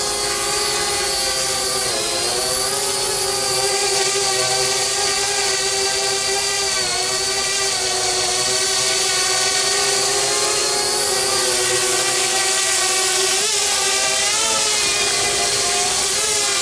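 Parrot Bebop 2 quadcopter's propellers whining steadily, the pitch dipping and recovering a few times as the motors change speed.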